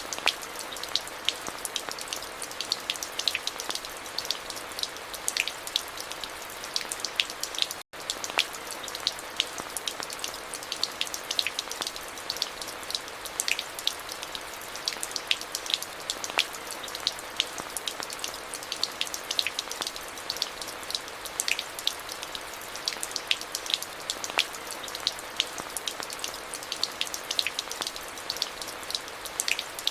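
Steady rain falling, with many close individual drops ticking sharply on a hard surface over an even hiss. About eight seconds in, the sound drops out for a split second.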